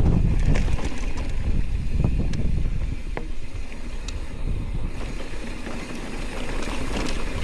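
Steady low rumble with wind buffeting the microphone, and a few faint clicks.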